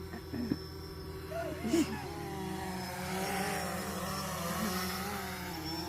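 Small drone's motors and propellers buzzing, their pitch wavering up and down as it manoeuvres.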